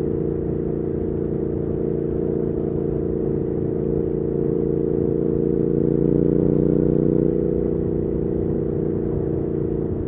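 Triumph Speed Twin 1200's parallel-twin engine through its short aftermarket Weslake exhaust, running steadily at cruising speed. The note swells a little about two-thirds of the way in, then eases back.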